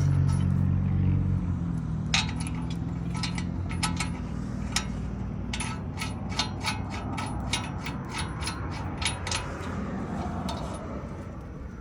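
Mechanic's tools and metal hardware at work: a steady whirr that stops about a second and a half in, then a long run of quick, irregular metallic clicks and clinks.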